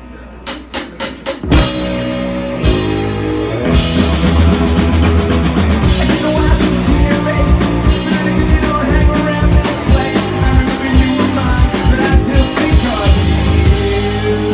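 Live rock band starting a song: a few quick sharp clicks, then drums, bass and electric guitar come in loud together, the full sound filling out a few seconds later.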